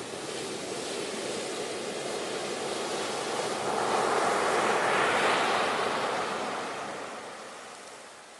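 Ocean waves washing onto shore: the surf noise swells to a peak about halfway through, then ebbs away near the end.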